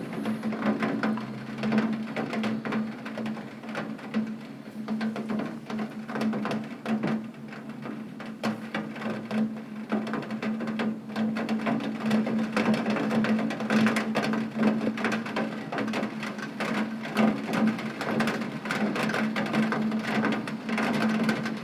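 Heavy rain pelting a window pane: a dense, irregular patter of drops tapping on the glass, with a steady low hum underneath.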